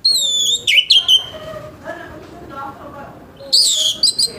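Orange-headed thrush singing loud whistled phrases of sliding, falling notes. A burst comes at the start and another from about three and a half seconds in, with softer, lower notes between them.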